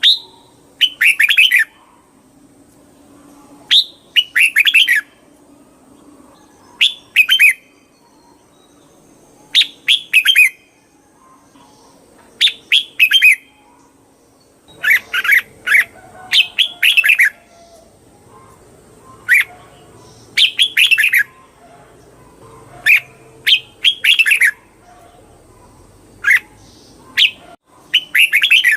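Red-whiskered bulbul singing short, bright whistled phrases, one every two to three seconds.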